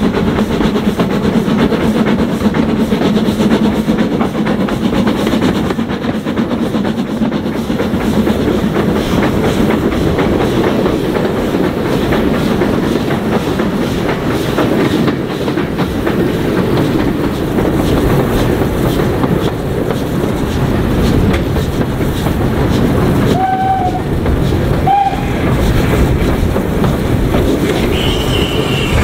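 A train running along the line, with the steady rumble and clatter of wheels over the rail joints. Two short high notes sound a little over 20 seconds in, and a high steady squeal from the wheels starts near the end.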